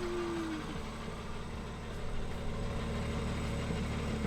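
A vehicle engine idling steadily with a low hum, with a short tone in the first half-second.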